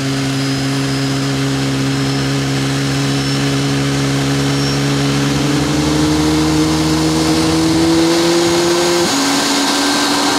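Boeing 737 MAX 8's CFM LEAP-1B turbofan being started on its pneumatic air starter, driven by air from the APU: a loud, steady whine with a hiss, rising slowly in pitch as the engine spools up. About nine seconds in, part of the whine stops abruptly and the pitch steps down as the starter cuts out.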